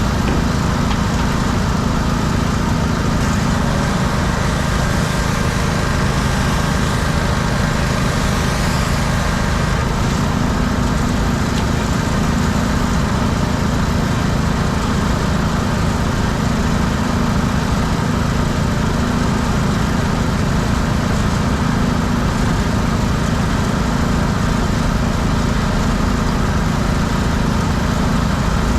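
Engine-driven pressure washer running steadily, its small engine's drone under the even hiss of the spray.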